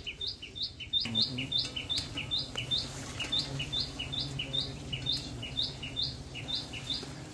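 A bird calling over and over, a short falling high note with a slightly lower note after it, repeated a couple of times a second, over a low steady hum that starts about a second in.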